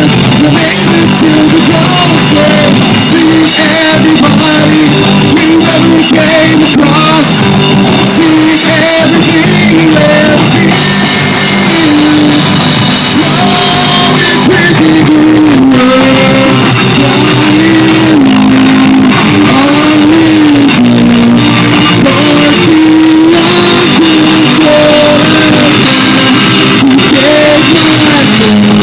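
Loud live rock band playing, with distorted electric guitars, drum kit and vocals.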